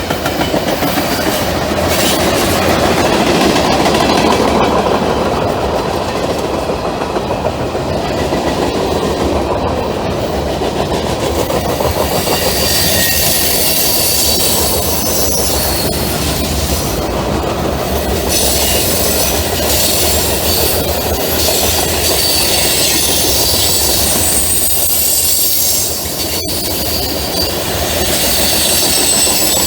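Freight train passing close by on temporary shoo fly track, a steady loud rumble of wheels on rail with clickety-clack from the rail joints. Faint high wheel squeal comes in over the second half.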